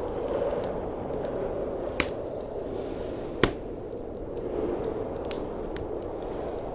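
Wood fire crackling, with two loud sharp pops about two and three and a half seconds in, over a steady low howl of blizzard wind.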